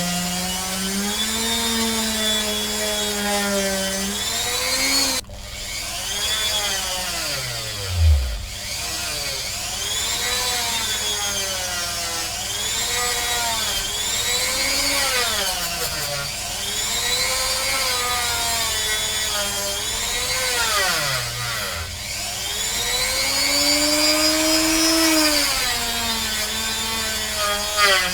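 Handheld rotary tool running under load on a pewter cast. Its motor whine keeps dropping and rising in pitch as it is pressed against the work and eased off, and it bogs down sharply once, with a loud knock, about eight seconds in.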